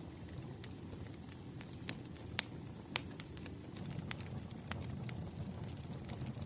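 Burning firewood crackling and popping at irregular intervals over a low, steady rumble of flames, with two sharper pops about two and a half and three seconds in.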